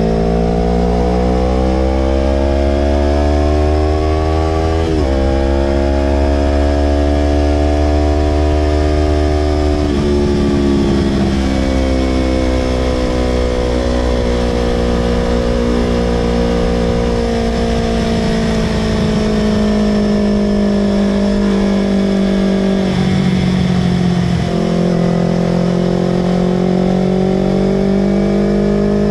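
Yamaha R25 parallel-twin motorcycle engine through a Villan Pro 2 aftermarket exhaust, pulling under throttle. The pitch climbs and drops sharply twice in the first ten seconds, like upshifts, then falls slowly for a long stretch. A short break comes near the end before the pitch climbs gently again.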